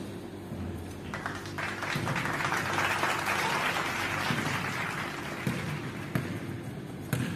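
A burst of hand clapping, about a second and a half in, lasting some four seconds before it fades, after a basket in a basketball game. A few thuds of a basketball bouncing on the court floor come in the second half.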